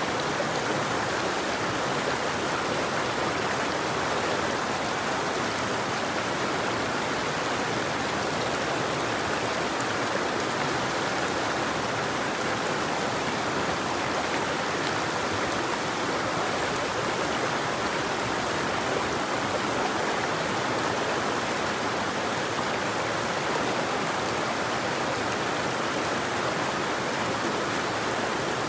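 River water flowing: a steady, even rush with no birdsong.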